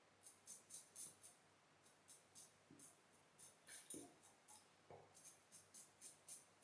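Safety razor strokes scraping through stubble: a run of short, faint scratchy rasps, about three to four a second, in several quick bursts, the blade cutting strong whiskers.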